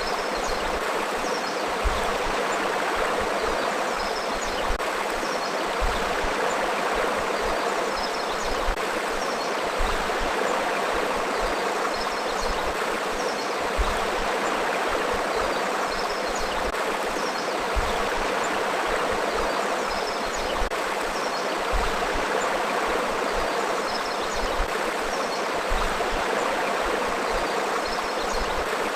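Forest river flowing steadily, an even rushing and babbling of water over rocks, with occasional soft low thumps underneath.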